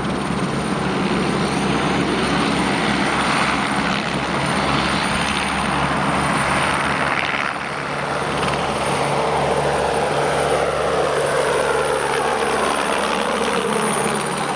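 Sud Aviation SE 313 B Alouette II helicopter running loud and steady, its Artouste turboshaft giving a thin high whine over the rotor noise. In the second half the engine tones slide down in pitch as the helicopter moves past.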